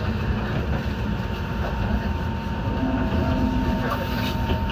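Enoden electric train running along the track, heard from inside the car: a steady low rumble of wheels and running gear, with a thin steady high tone.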